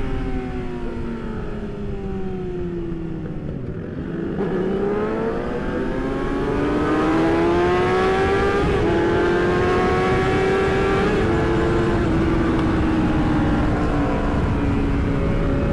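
Sport motorcycle engine at speed over wind rumble: the revs fall for about four seconds as it slows, then climb sharply for about three seconds under throttle and hold steady at high revs.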